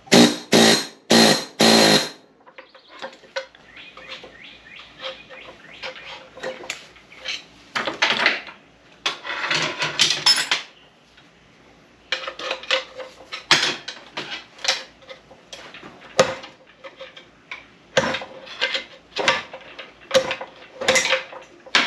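Repeated metal-on-metal hammer strikes driving a rusted bearing off an SM465 transmission shaft, each blow ringing. Four loud blows open it, then a run of lighter, irregular taps with a brief pause partway through before steady tapping resumes.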